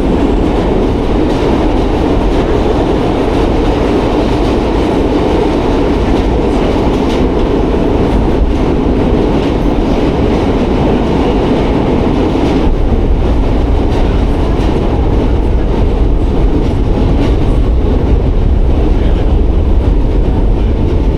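New York City Subway Q train running at speed, a loud steady rumble of wheels on rails; the higher part of the noise eases a little about thirteen seconds in.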